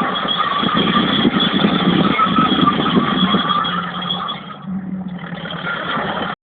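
Fiat FL8 crawler's diesel engine running under load, dropping off briefly about four and a half seconds in, then cutting off suddenly at the very end.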